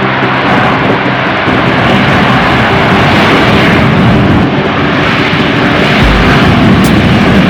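Loud, continuous jet engine noise of a military jet flying past at an air show display, with a deeper rumble building about six seconds in.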